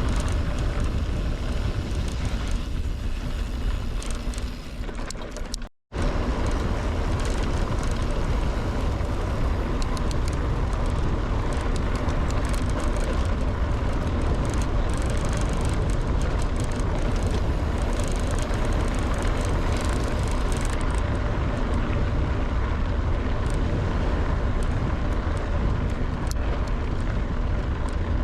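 Wind buffeting the microphone of a camera on a moving mountain bike, a loud steady low rumble. It breaks off for an instant about six seconds in.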